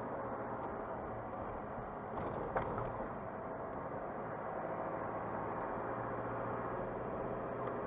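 Car engine and tyre noise while driving, steady, with a short knock about two and a half seconds in.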